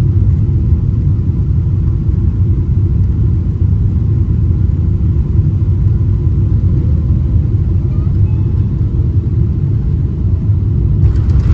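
Steady low rumble of jet engines and airflow heard inside the cabin of a Boeing 777-300ER, with a brief rattle near the end.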